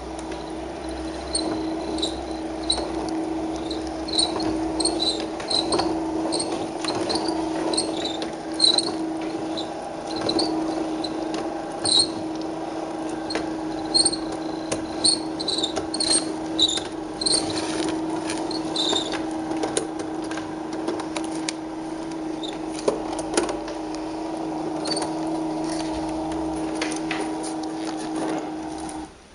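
Small electric motor of a home-built vacuum cleaner, made from Merkur metal construction-set parts, running at a steady pitch, with scattered light clicks and rattles throughout. The motor cuts off abruptly near the end.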